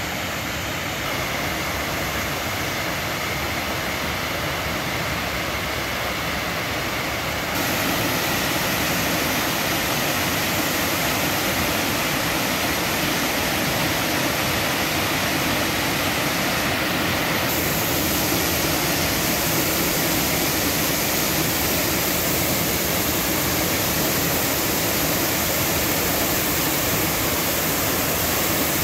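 Waterfall rushing in a steady roar of falling water, growing louder about seven seconds in.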